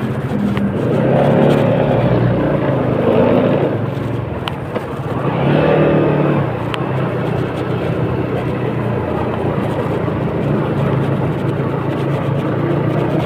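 A motor vehicle's engine running steadily, swelling louder twice.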